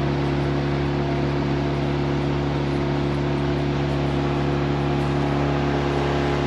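Outboard motor on an inflatable boat running at a steady cruising speed, an even engine drone with a constant hiss over it.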